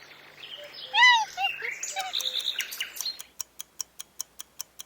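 Chimpanzee calls: a series of high, arching hoots and cries, the loudest about a second in. The calls stop a little after three seconds, and rapid, even clock ticking of a countdown timer follows.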